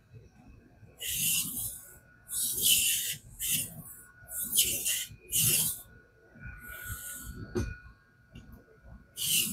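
Knife blade stroked across a King whetstone in a fixed-angle guided sharpener: about six scraping strokes, each under a second, with short pauses between.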